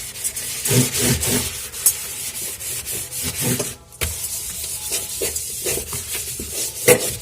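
Scrubber pad rubbing back and forth over the inside of a fridge, scrubbing off stains with dishwashing paste, in repeated scratchy strokes with a short break about four seconds in.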